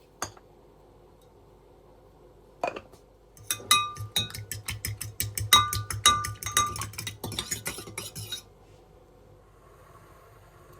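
A kitchen utensil clinking rapidly against a dish, several ringing strikes a second for about five seconds, after a couple of single knocks.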